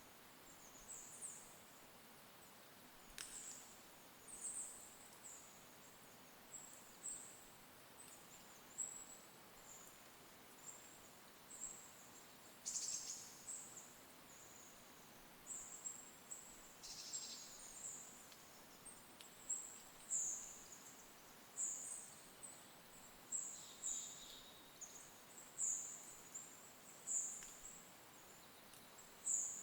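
A small bird giving thin, very high-pitched chirps again and again, about one a second, growing louder toward the end. A few sharper, fuller calls stand out among them.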